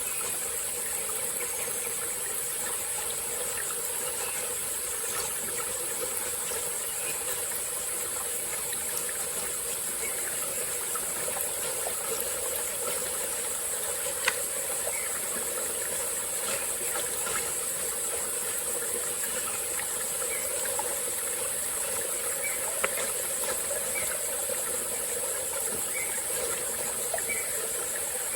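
Steady high-pitched insect chorus over the running water of a small tropical-forest stream, with two sharp clicks, one about halfway through and one later.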